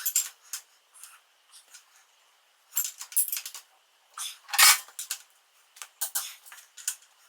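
Metal tools and parts clinking and clattering in short, irregular knocks and taps, the loudest about halfway through.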